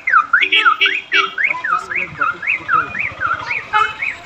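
Electronic alarm or siren wailing in quick up-and-down sweeps, about three a second, growing somewhat fainter after about two seconds.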